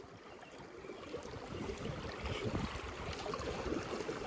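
River water flowing, getting louder from about a second in.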